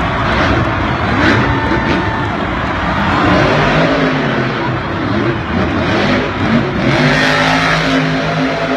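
Monster truck engine running loud and revving, its pitch rising and falling in the middle and holding steadier near the end.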